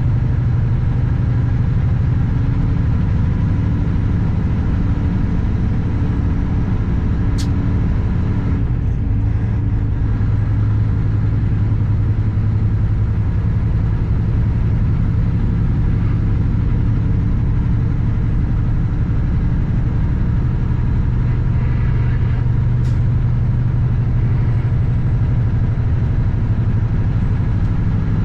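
Kenworth W900 semi truck's diesel engine running at a steady, unchanging pitch, with two brief clicks along the way.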